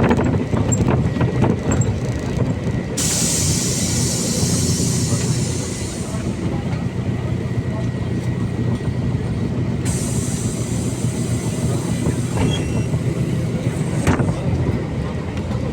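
Inside a MAZ-203 city bus under way: the diesel engine and running gear give a steady low rumble. A high hiss comes in about three seconds in and fades away about fourteen seconds in.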